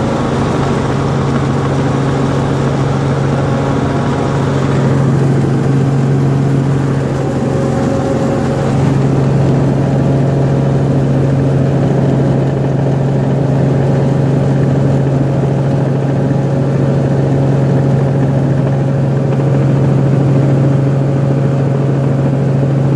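Helicopter engine and rotor running, a loud, steady drone with a strong low hum that holds its pitch throughout.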